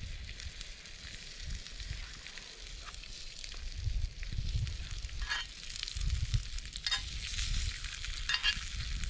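Food frying in a pan: a steady sizzling hiss, with a few sharp pops about a second or so apart and some low rumbles.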